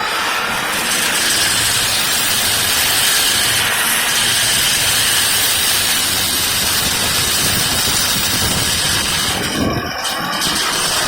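Heavy machine's engine running steadily, with a loud continuous rushing noise; the sound dips and shifts briefly about ten seconds in.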